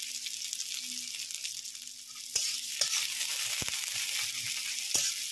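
Sliced onions and green chillies sizzling in hot oil in a metal kadai while a metal spatula stirs them, scraping and knocking against the pan several times in the second half.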